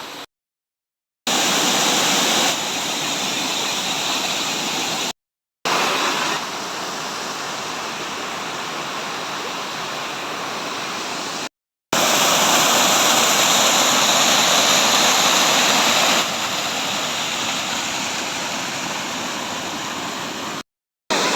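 Waterfall, a steady loud rush of falling water. It cuts to dead silence four times for under a second, and each time the rush comes back a little louder before settling.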